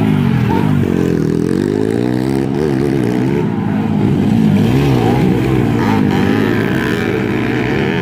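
Motocross dirt bike engines revving, their pitch rising and falling repeatedly.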